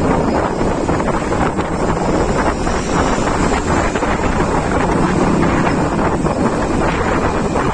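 Loud, steady wind buffeting the microphone, as on a moving ride.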